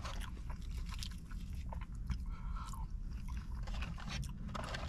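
A person chewing food, with small wet clicks and crunches from the mouth, over a steady low rumble.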